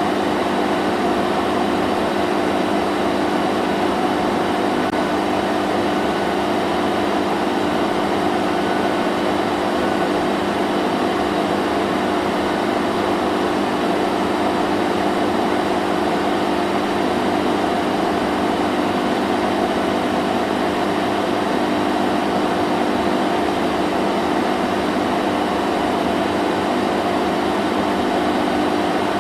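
Vacuum cleaner running at a constant pitch and level: a steady motor hum under a rushing hiss of air.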